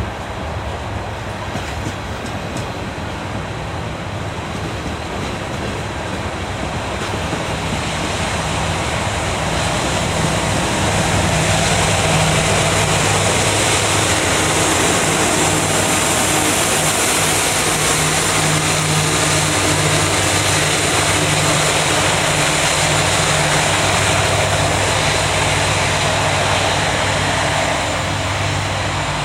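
A train rolling past close by: a steady rumble of wheels on rail with a low, steady hum. It grows louder over the first several seconds, then holds loud.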